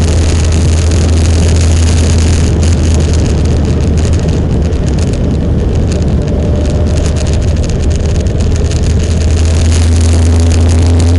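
Motorcycle riding along at steady speed: a constant engine drone under loud, even wind noise on the microphone.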